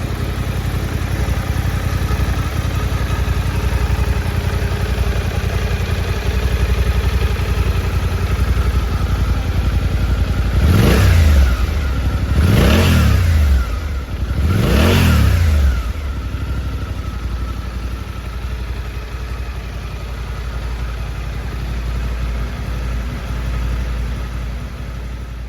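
Suzuki V-Strom 800's 776 cc parallel-twin engine idling steadily. About ten seconds in, the throttle is blipped three times in quick succession, each rev rising and falling back, before the engine settles to idle again.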